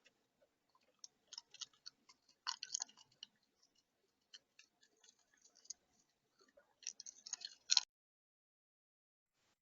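Seed being eaten at a bird feeder close to the camera's microphone: clusters of sharp clicks and crunches, one run about a second in and a louder, denser run near the end.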